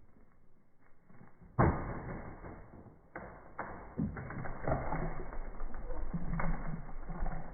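Wooden tree house timbers giving way under demolition: a sudden loud thud about a second and a half in, then irregular cracking, creaking and knocking of wood.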